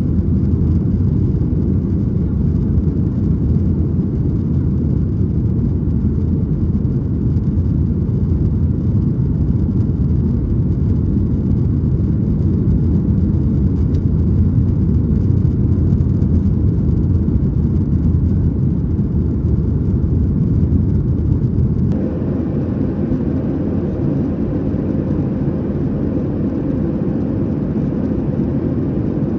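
Steady low cabin noise inside a climbing Boeing 737-800: its CFM56 turbofan engines and airflow running under climb power. About three-quarters of the way through, the noise abruptly changes to a slightly quieter, duller cabin noise.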